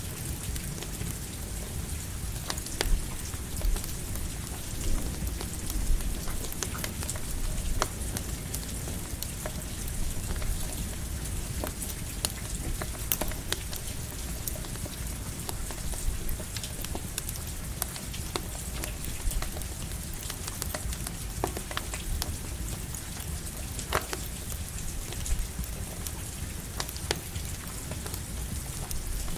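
Steady rain falling with a campfire crackling: an even hiss with scattered sharp pops and clicks, over a low rumble.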